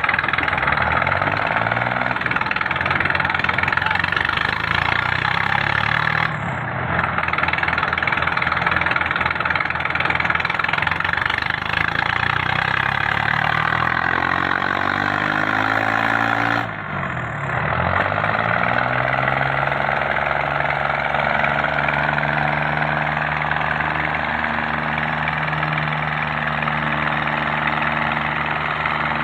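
Diesel tractor engines running hard, engine speed rising and falling, then holding steadier in the second half.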